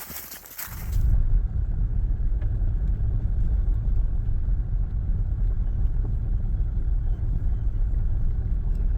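A car being driven, with a steady low engine and road rumble that starts suddenly about a second in.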